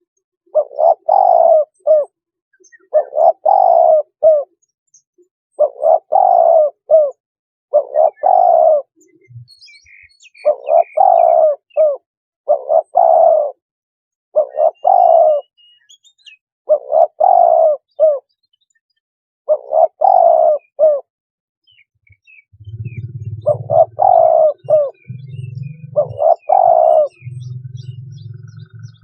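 Spotted dove cooing, a lure call: loud multi-note coo phrases repeated about every two seconds, with faint chirps of other small birds. A low hum joins in near the end.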